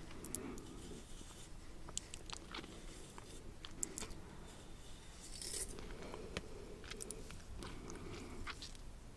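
Close-miked chewing and mouth sounds, with irregular small wet clicks and soft crunches.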